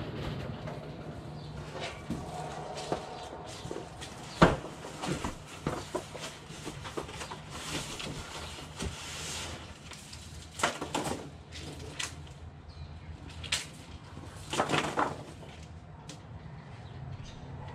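Unpacking and handling noises: scattered knocks and clicks with bursts of rustling, the sharpest knock about four seconds in, over a low steady hum.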